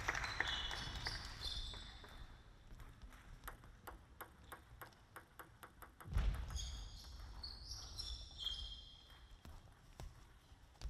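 Light ticks of a table tennis ball bouncing, a run of several a second, with short high sneaker squeaks on the hall floor near the start and again in the second half.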